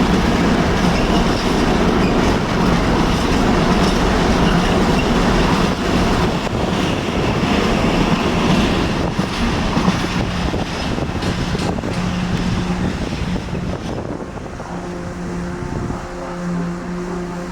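A train moving through the station: loud wheel-on-rail noise with the clicks of wheels over rail joints. About fourteen seconds in it drops away, leaving a quieter steady hum.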